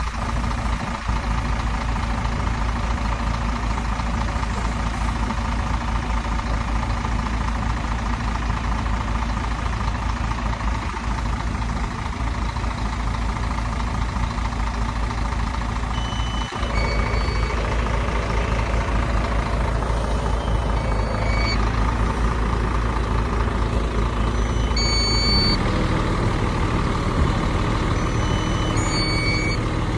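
Heavy diesel earthmoving machinery running steadily, its engine note shifting about 25 seconds in. From about halfway through, a reversing alarm sounds in short pairs of beeps a few seconds apart.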